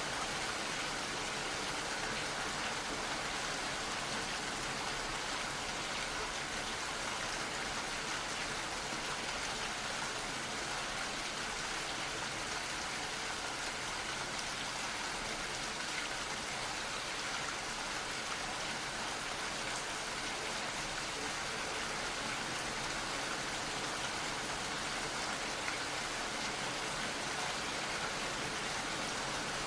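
Gentle rain falling steadily, a soft even patter with faint individual drops.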